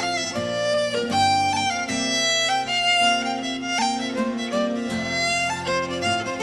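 Fiddle playing a fast run of notes over a low held accompaniment, in the style of an Irish traditional tune.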